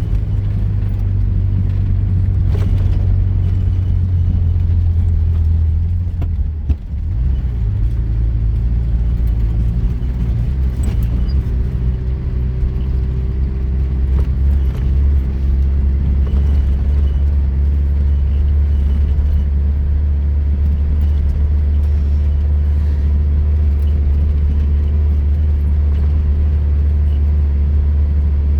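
Car engine and running gear droning steadily while driving off-road, with a brief drop in level about seven seconds in.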